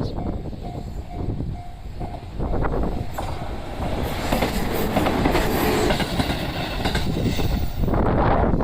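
Level-crossing warning bell ringing in quick, even beats. From about two and a half seconds in, an electric train passes over the crossing and drowns it out. Wind buffets the microphone throughout and gusts near the end.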